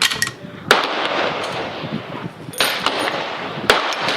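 Four gunshots on a shooting range, each a sharp crack followed by a trailing echo. The shots come irregularly, about a second or two apart.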